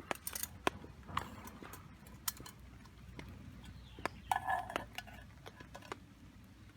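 Cookware and utensils being handled: scattered light knocks and clicks, with one brief ringing metallic clink about four and a half seconds in.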